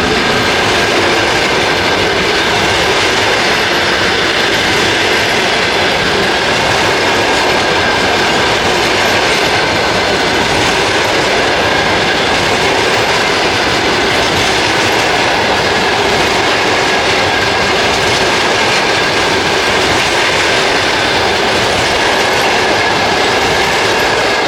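Passenger train passing close by at steady speed, its wheels clattering continuously over the rails with a thin steady ringing tone above the rumble.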